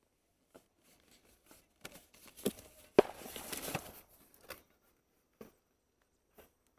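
Rustling and crackling of brush and handling noise, scattered short clicks that thicken in the middle, with one sharp knock about three seconds in.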